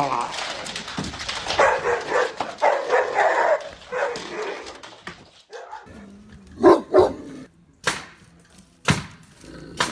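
Dog vocalizing in bursts: choppy whining barks in the first few seconds, then a few short, loud barks about two-thirds of the way through.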